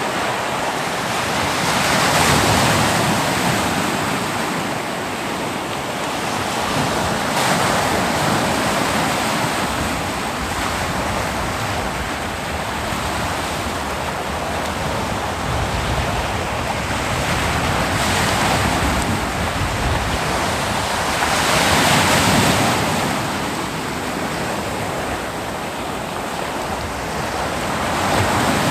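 Ocean surf breaking on a beach: a continuous wash of waves, swelling louder with each breaker every few seconds.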